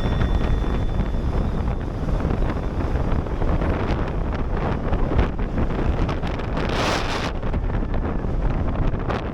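Storm-force mountain wind buffeting the microphone: a loud, continuous rumbling rush, with a hissier gust about seven seconds in.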